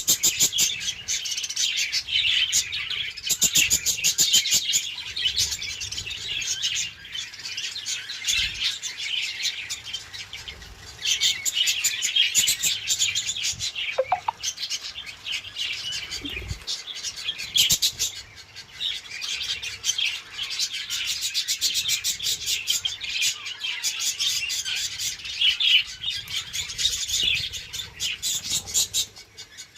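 A flock of budgerigars chattering and chirping continuously, many rapid high calls overlapping.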